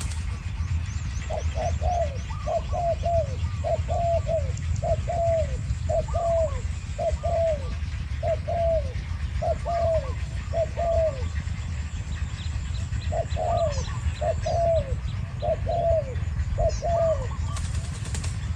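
Spotted doves cooing back and forth: a long run of short repeated coo phrases, broken by a pause of about two seconds before the cooing resumes, with fainter higher coos from a second bird.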